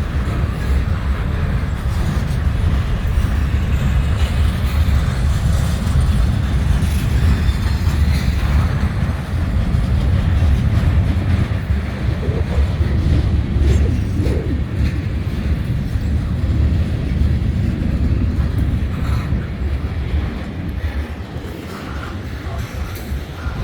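Freight train rolling past: a steady low rumble of wheels on the rails, with scattered faint clicks from the rail joints.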